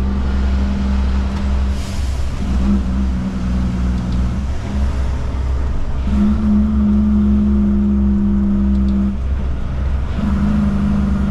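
Kenworth K200 truck's Cummins diesel engine running under way, with a steady low rumble and a hum that drops out and comes back three times.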